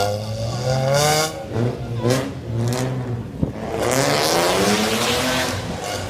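Straight-piped car exhaust revving hard in several rising bursts, the longest from about four to five and a half seconds in, with a sharp crack just past halfway.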